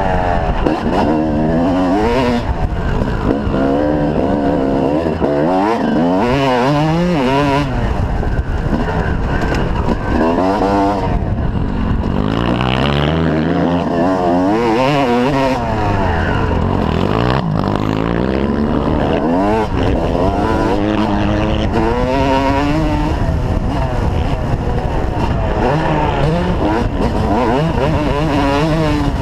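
Motocross bikes lapping a dirt track, their engines revving up and dropping back over and over as they accelerate and shift, with more than one bike heard at once.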